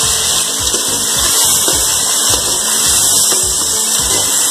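Chopped tomatoes sizzling steadily in hot oil with fried onions in a cooking pot, under background music with a steady beat.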